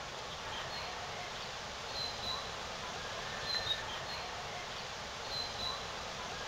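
Steady wind noise on the microphone, with short high whistled notes of a common blackbird singing in the background every second or so.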